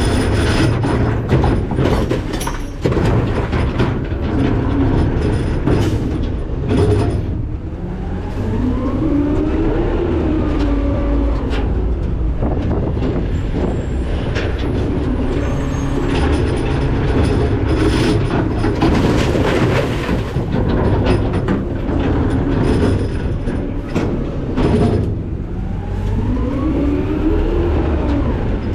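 McNeilus ZR rear-loader garbage truck working at the hopper: a steady low engine and hydraulic rumble, many sharp cracks and crunches of trash being dumped and compacted, and a whine that rises and then falls twice, about eight seconds in and again near the end.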